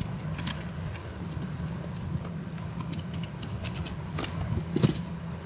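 Ratchet clicking in short runs as the seat screws are driven home, a few quick clicks at a time, over a steady low hum.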